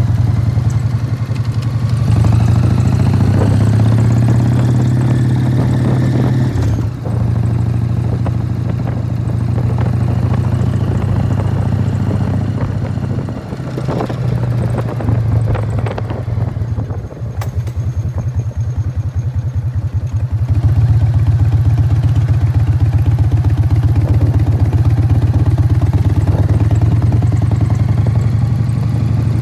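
Harley-Davidson FLSTF Fat Boy's Evolution V-twin running loud through Python mufflers while riding, with the clattering rattle of its open primary drive. The engine pulls up in pitch a few seconds in, drops at a gear change, eases off for a few seconds past the middle, then runs steady and loud near the end.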